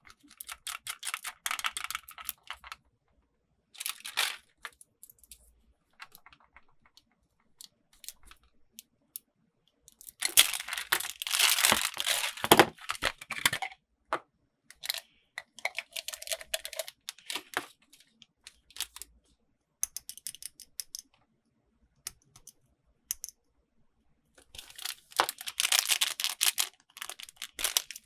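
Toy packaging being unwrapped by hand: crinkling and tearing in irregular bursts with small clicks between quiet pauses. The loudest stretch comes about ten seconds in and lasts a few seconds, with another burst near the end.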